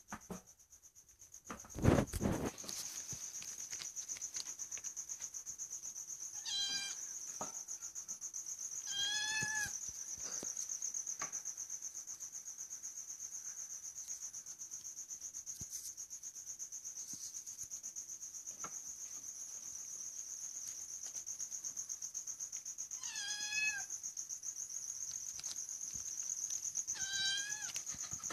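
Domestic cat meowing four times: short calls, two close together and two more much later. Under them runs a steady, high, rapidly pulsing chirr like a cricket, and there is one sharp thump about two seconds in.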